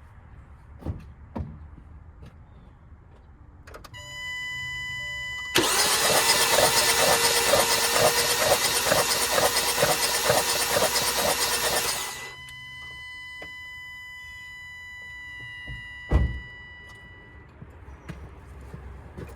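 2016 Hyundai Sonata engine being cranked by the starter for about six seconds in a steady rhythm without catching, then stopping abruptly; the cranking is to see which cylinder sprays fuel, and the mechanic finds cylinder 4, pointing to a leaking fuel injector. A steady high electronic tone sounds before, during and after the cranking, and there is a single thump near the end.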